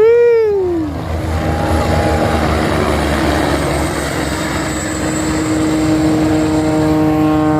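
Propeller airplane engine droning steadily over a constant rushing background, its even tones growing clearer in the second half. A short rising-and-falling whoop sounds right at the start.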